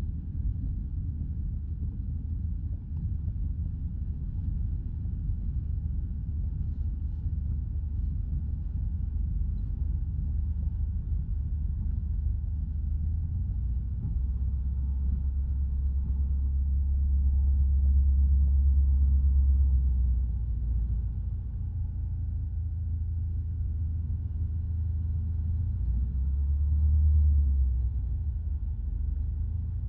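Light single-engine piston aircraft's engine droning in the cockpit, a steady low hum that swells in loudness twice, around the middle and near the end.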